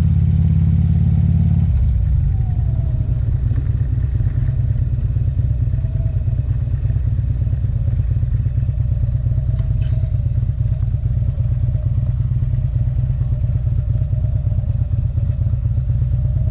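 Motorcycle engine idling at a stop; about two seconds in its note drops as the revs settle, then it runs steadily at idle while the rider hunts for neutral.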